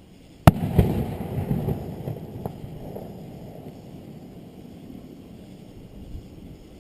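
Fireworks going off: a sharp loud bang about half a second in and a second bang just after. A rumbling echo with a few smaller pops follows and fades away over several seconds.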